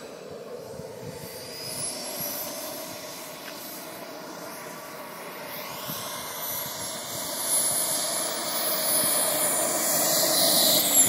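Radio-controlled F-16 model jet flying, its engine whine and rush growing louder as it approaches, with the pitch starting to drop as it passes close near the end.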